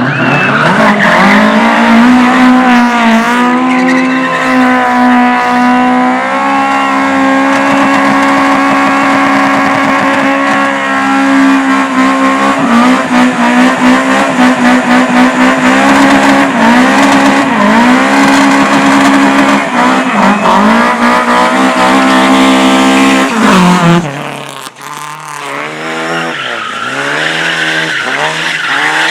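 Race car's engine revving hard through a slalom, its pitch climbing and falling repeatedly with the throttle and gear changes. Near the end the loud engine note cuts away abruptly and a quieter engine with a wavering pitch follows.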